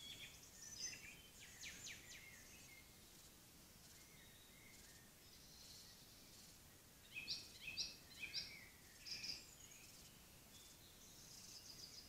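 Wild songbirds singing, faint overall: a quick run of high chirping notes in the first two seconds, then another burst of song about seven to nine seconds in, with quieter calls between.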